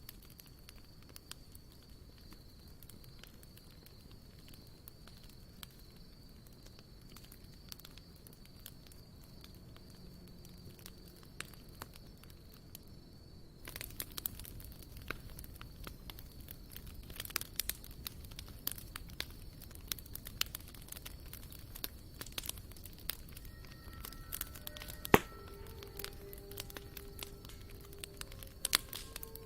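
Wood campfire crackling, with sparse faint snaps at first. About halfway through the crackling turns louder and denser, with one sharp pop a few seconds before the end. Soft music with sustained notes comes in near the end.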